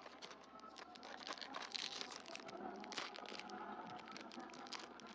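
Plastic packaging crinkling and crackling irregularly as it is handled and opened.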